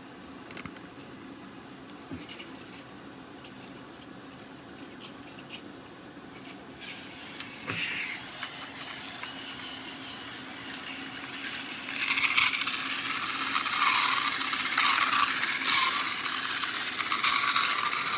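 Light clicks of plastic toy trains and track being handled, then a battery-powered Trackmaster toy engine's motor and gears start up about seven seconds in. The sound gets steadily louder and becomes a loud, steady whirring rattle from about twelve seconds.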